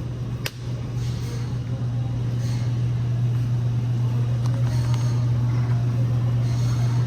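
A steady low hum or rumble, with one sharp click about half a second in.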